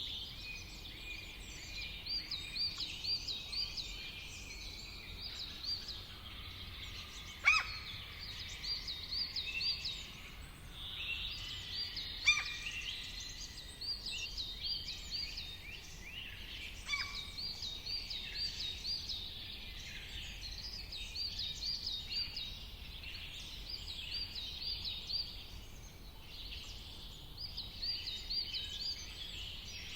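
Wild birds singing: quick runs of short, high chirps repeat over and over, with three louder, sharp calls that drop steeply in pitch. A faint low rumble lies underneath.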